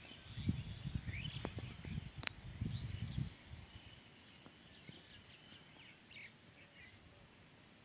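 Small birds chirping in short, high calls, with low rumbling noise on the microphone during the first three seconds and a single sharp click a little past two seconds in.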